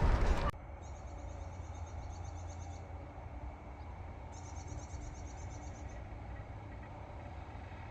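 Music cuts off about half a second in, leaving outdoor ambience: a steady low rumble and a high, rapid, pulsing trill from a small animal, heard twice for about two seconds each.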